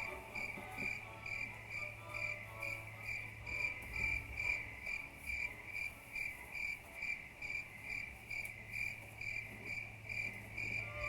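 High chirping repeated evenly at about two chirps a second, like a cricket, over a steady low hum.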